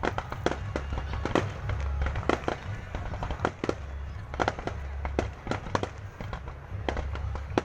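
Aerial fireworks going off: a rapid, irregular string of sharp bangs and crackles, with a steady low rumble underneath.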